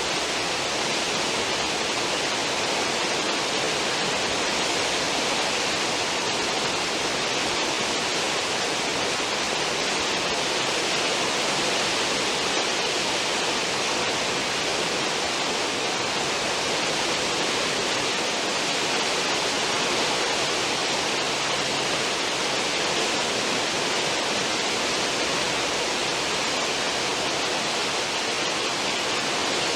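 A cruise ship's stern wake: steady rushing and churning of foaming water, an even hiss without breaks.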